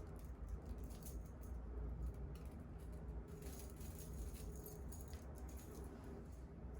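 Faint scattered clicks and light rustling, busiest in the middle, over a steady low hum.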